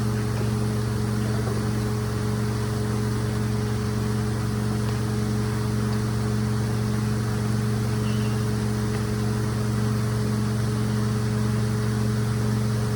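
Rug-cleaning machine running steadily: a constant motor hum with an even hiss over it.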